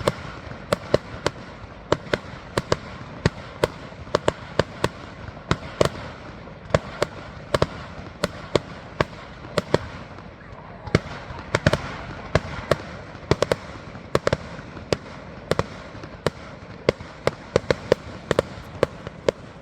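Fireworks display: a rapid, irregular run of sharp bangs from shells bursting, about two or three a second, over a steady background of crackle and rumble.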